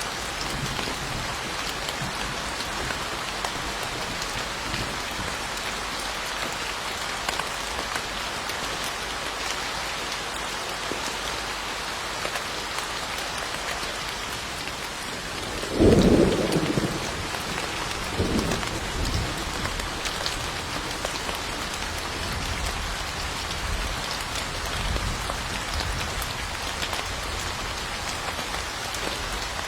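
Steady rain falling on surfaces, a continuous even hiss. About halfway through, a loud clap of thunder breaks in and fades within about a second, followed by a weaker rumble a couple of seconds later and faint low rumbles near the end.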